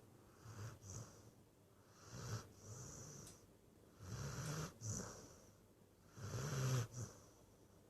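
Sleeping dog snoring, about one breath every two seconds: each a low snore with a high hiss on top.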